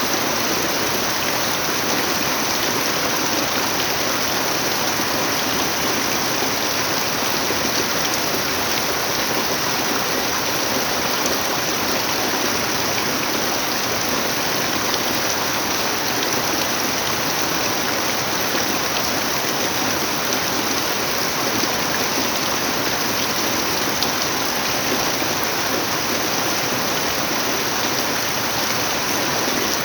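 Steady rain falling without let-up: an even, unbroken hiss.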